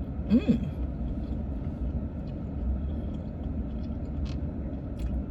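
Steady low rumble of a car cabin, with a brief sound that slides in pitch about half a second in and a few faint clicks of eating.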